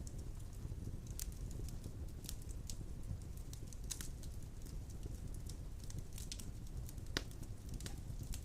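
Wood fire crackling in a fireplace: a steady low rumble of burning with irregular sharp pops and snaps, one louder pop a little after seven seconds in.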